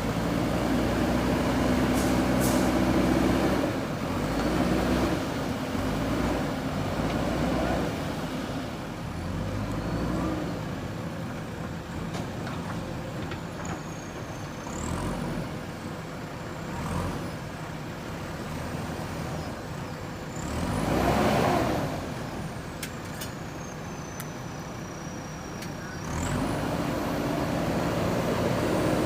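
JCB backhoe loader's diesel engine running under load, its note rising and falling as the machine works. A short loud hiss comes about three quarters of the way through.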